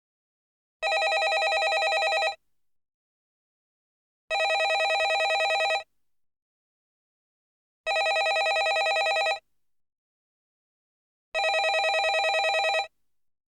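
Landline telephone bell ringing: four rings of about a second and a half each, spaced about three and a half seconds apart, each with a rapid fluttering rattle of the bell, and silence in between.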